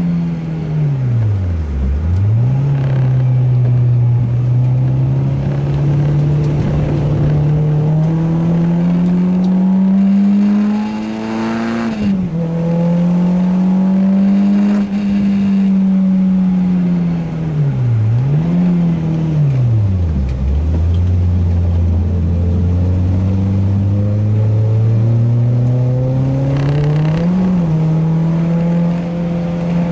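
Renault Clio 2 RS's 2.0-litre four-cylinder engine under hard track driving: the revs climb steadily through long pulls, drop sharply on gear changes and dip low and rise again several times as it slows and changes down for corners.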